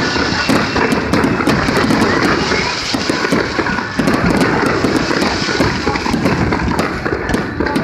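A fireworks barrage: continuous bursts layered with a dense crackle of many small rapid pops.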